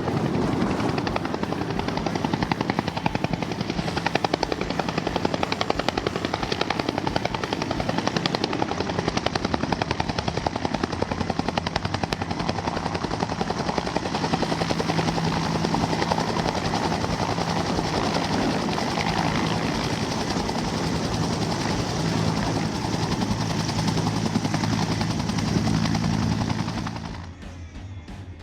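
Helicopter flying, its rotor and engine giving a steady, fast beat that cuts off abruptly near the end.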